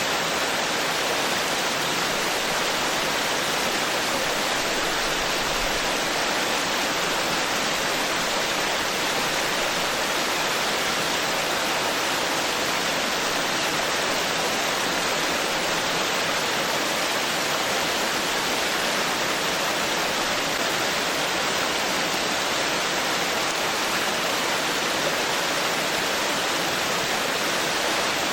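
Forest stream flowing over rocks: a steady, even rushing of water.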